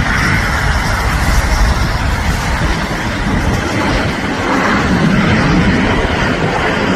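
Boeing 747-400 freighter's four jet engines during landing: a loud, steady rush with deep rumble, growing a little louder about four seconds in.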